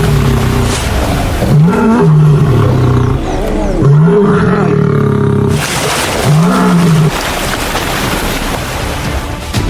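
Big cat growling and snarling in a series of low, drawn-out growls, each rising in pitch and then holding, over a rough noisy background.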